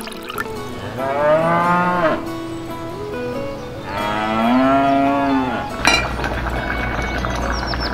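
A cow mooing twice: two long, drawn-out moos a couple of seconds apart. Near the end comes a short sharp clink as a small metal pot lid is handled.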